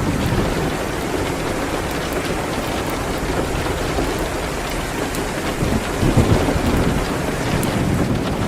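Steady rain, as a constant even hiss, with a low rumble that swells briefly about six seconds in.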